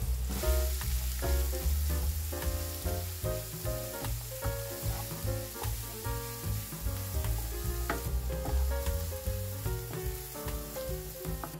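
Diced onion and carrot sizzling in oil in a nonstick frying pan over medium heat, with a wooden spatula stirring and scraping the pan now and then. Background music with a bass line plays underneath.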